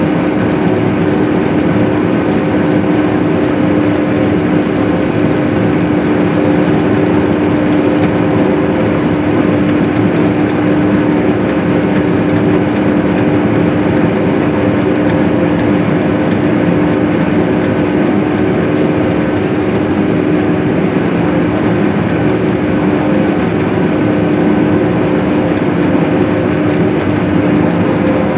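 Case IH swather (windrower) running steadily while cutting hay. Its engine and header make a constant drone with a steady pitched hum.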